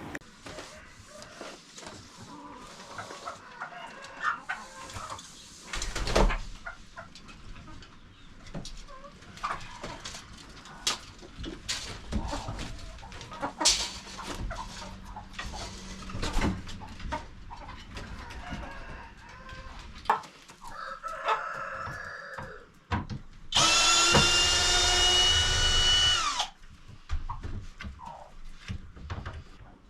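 Chickens clucking among scattered clicks and knocks, then a rooster crowing once near the end, a single call of about three seconds that is the loudest sound.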